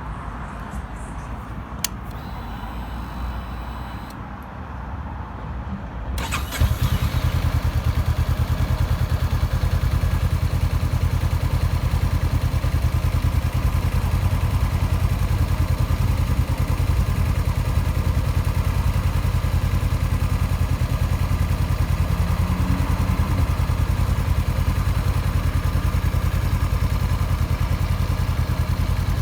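Honda CB500X's parallel-twin engine, breathing through an aftermarket Fuel carbon exhaust, cranking over and catching about six seconds in, then idling steadily with a fast, even beat.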